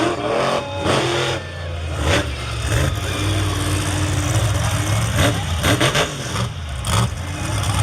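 Monster truck engines running with a deep, steady rumble, rising briefly in short revs.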